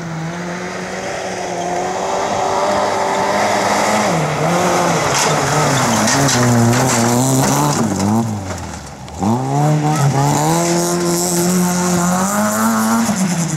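Zastava Yugo rally car's four-cylinder engine revving hard, the pitch climbing and falling with throttle and gear changes. About two-thirds of the way through, the revs drop away sharply, then climb straight back up.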